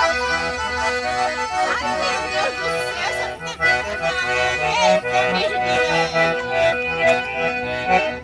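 Accordion playing a lively tune over a rhythmic bass line.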